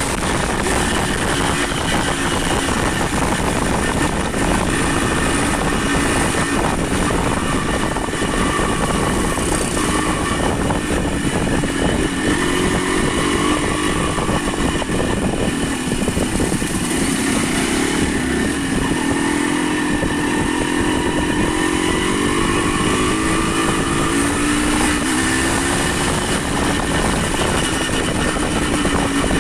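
A vehicle engine running, its pitch slowly rising and falling with speed, over a steady rush of wind and road noise.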